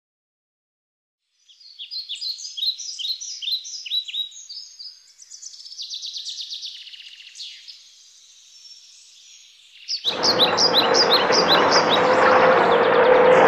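Songbirds singing quick runs of high chirps, starting after a second or so of silence. About ten seconds in, a loud steady rushing noise comes in under the birdsong and stays.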